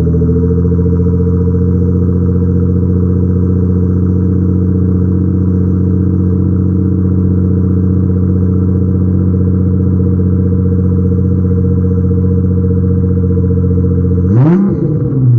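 2010 Nissan GT-R's twin-turbo V6 idling steadily just after startup through an aftermarket Meisterschaft exhaust, loud, with one quick throttle blip near the end.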